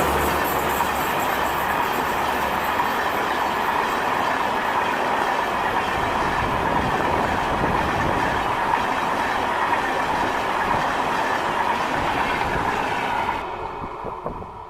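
Coaches of a passenger train rolling past: a steady, loud rumble of steel wheels on rail with clickety-clack over the rail joints. It drops away sharply near the end.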